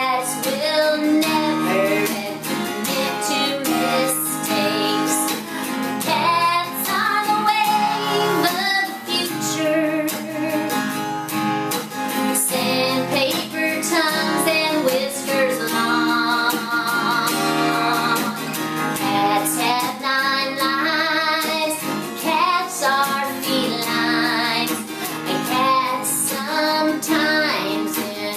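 A children's song sung to guitar accompaniment, the voice wavering with vibrato over steady chords.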